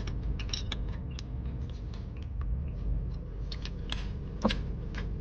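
Irregular light clicks and crackles over a steady low rumble, with a slightly louder knock about four and a half seconds in.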